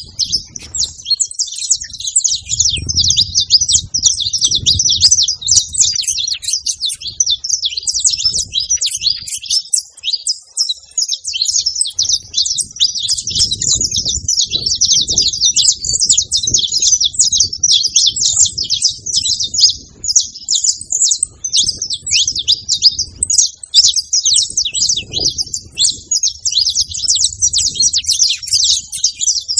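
Saffron finches singing: a dense, unbroken stream of fast, high chirps and trills. A faint low rumble sits underneath.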